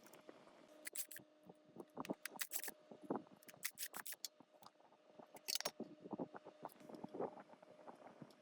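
Irregular clicks, clinks and knocks of hand tools and metal parts being handled, some ringing high and sharp, over a faint steady hum.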